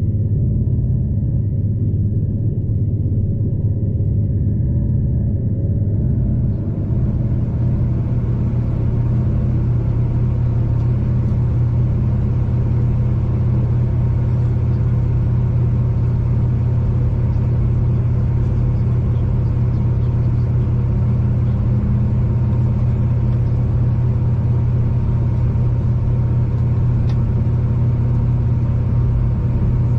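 V/Line passenger train running along the track, heard from inside the carriage: a steady rumble with a low hum. About six seconds in, a hiss joins the rumble and carries on.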